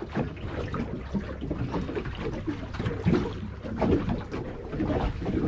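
Small boat at sea: water slapping unevenly against the hull, with wind on the microphone.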